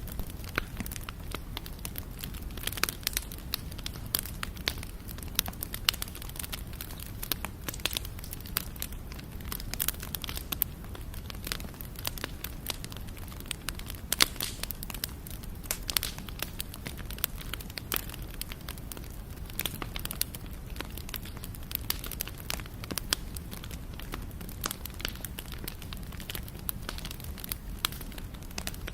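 Wood fire burning, crackling and popping with many irregular sharp snaps over a steady low rumble of the flames.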